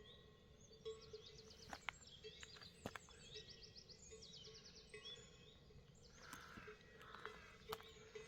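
Faint songbirds singing in quick repeated trilled phrases over a low background with a faint steady hum and a few small clicks.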